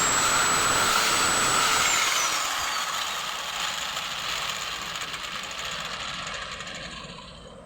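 Small electric power tool motor running with a high whine, then switched off: the whine falls in pitch as it spins down and the sound fades away over several seconds.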